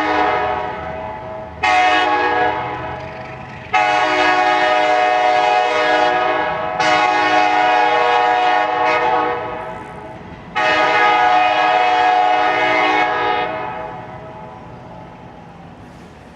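An Arkansas & Missouri Railroad locomotive's air horn sounding a series of long blasts, with several tones together in each. Four blasts start one after another, and the horn dies away over the last few seconds.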